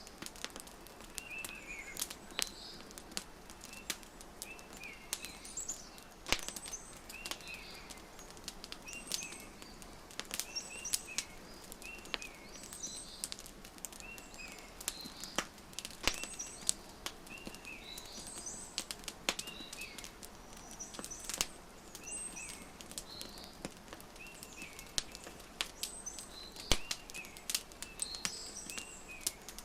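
Wood fire crackling with sharp, irregular pops and snaps over a soft hiss, while small birds chirp repeatedly in short calls.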